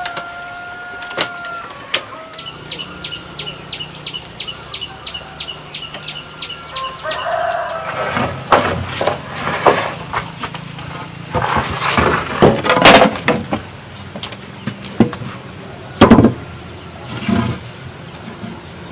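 A held call at the start, then an even run of high chirps, about three or four a second. From the middle on come a series of irregular loud knocks and scrapes, the sharpest a single hard knock near the end.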